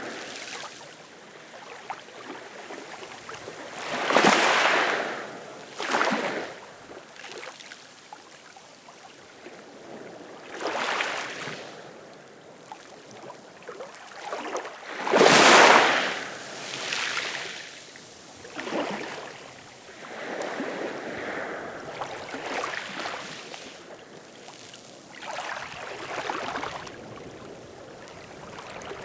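Ocean waves washing on a shore in irregular swells every few seconds, the biggest about four seconds and fifteen seconds in.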